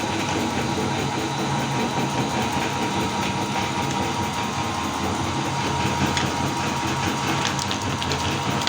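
Electric meat grinder running steadily, its motor humming as the auger grinds cookies, with a few faint crackles of pieces breaking.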